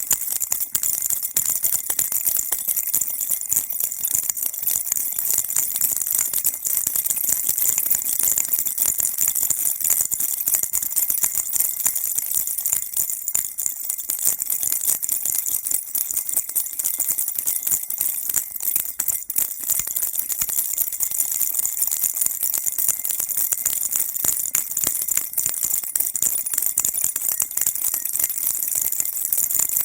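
Baby rattle shaken continuously, a dense, steady high jingling of small beads or bells without pauses.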